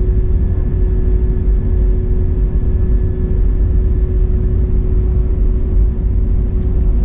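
Steady cabin noise inside an Airbus A321neo taxiing after landing: a dense low rumble with a steady hum running through it.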